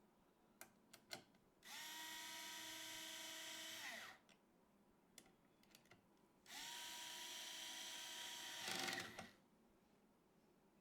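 Small electric screwdriver run twice for a little over two seconds each, its motor whine steady, then dropping in pitch as it stops. A few light clicks come before the first run, and the second run ends with a brief louder rattle.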